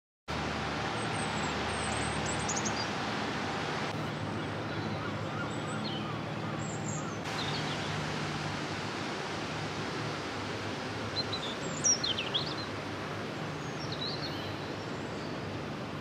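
Outdoor evening ambience: a steady low hum and hiss, with small birds giving short chirps now and then, a quick run of chirps about twelve seconds in.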